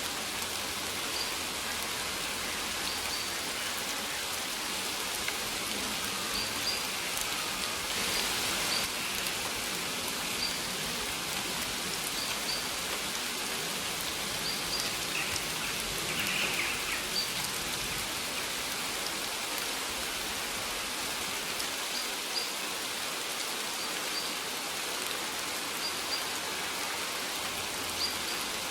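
Steady rain falling, an even wash of patter, with short high bird chirps repeating every second or two.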